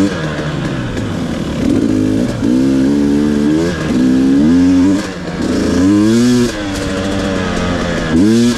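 Two-stroke dirt bike engine revving hard and repeatedly: its pitch climbs, drops off sharply at each shift or throttle chop, and climbs again as the bike accelerates along the trail.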